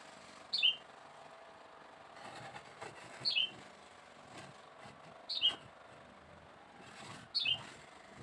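A bird calling: a short falling chirp, repeated four times about every two seconds, with faint tapping between the calls.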